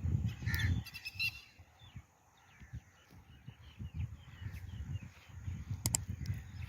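A crow cawing about half a second in, over low dull thuds that continue through the rest.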